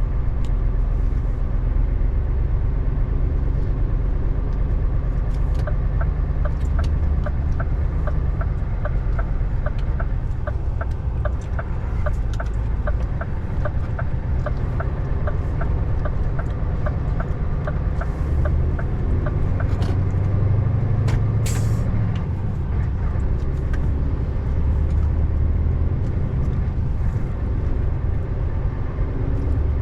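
Scania R590 V8 truck engine running steadily under way, a deep low rumble. A regular ticking about twice a second runs from around six seconds to twenty seconds in, and a short hiss comes a little after twenty seconds.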